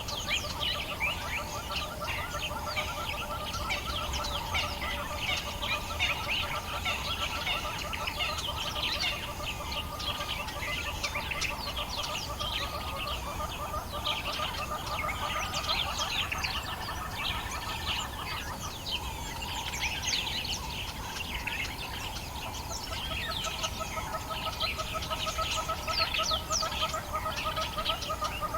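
Dawn chorus of African bush birds: many birds chirping and calling over one another, with a lower, rapidly pulsed rattling call underneath that drops away about two-thirds of the way through and then comes back.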